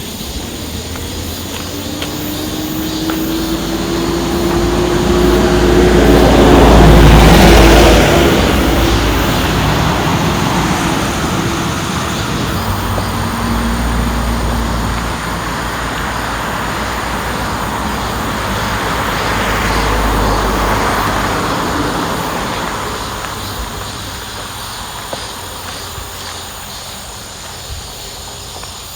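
Road vehicles passing close by. The loudest goes by about seven seconds in with a rising engine note, and two quieter pass-bys follow around fourteen and twenty seconds.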